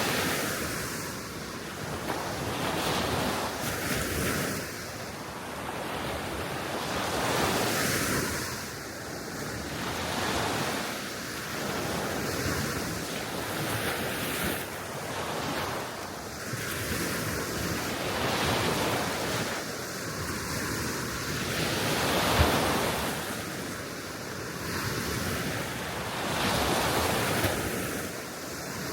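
Small waves washing onto the Baltic Sea shore, the surf swelling and ebbing every few seconds, with wind buffeting the microphone. There is a brief thump about two-thirds of the way through.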